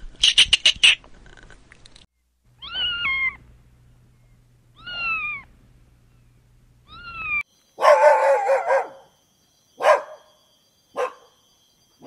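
A quick burst of rapid chirping from a ground squirrel, then kittens meowing: three short falling meows about two seconds apart. After these come a longer wavering meow and two brief calls.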